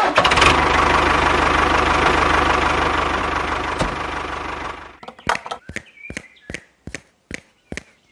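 A small motor runs steadily for about five seconds and then stops. It is followed by regular sharp clicks, about two to three a second.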